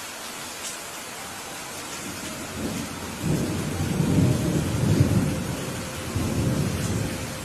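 Steady rain with a roll of thunder rumbling in about two and a half seconds in, swelling to its loudest midway and dying away near the end.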